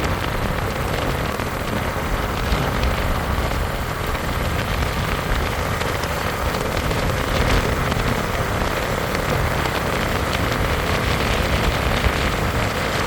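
Bajaj Avenger cruiser motorcycle on the move: a steady rushing noise with a heavy low rumble.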